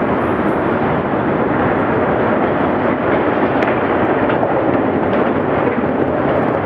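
Steady rumbling roar of a bridge demolition blast rolling on and the steel spans coming down, just after the explosive charges fire, with a few faint cracks in it.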